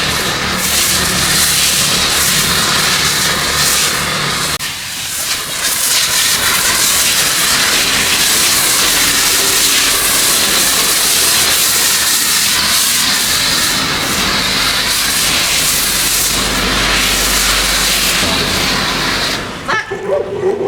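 A steady, loud hiss of a pressurised spray, briefly easing about four and a half seconds in and cutting off suddenly near the end.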